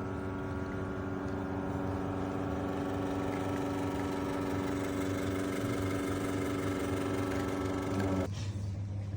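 Electric espresso machine's pump humming steadily while a shot is pulled, cutting off abruptly about eight seconds in as the extraction is stopped.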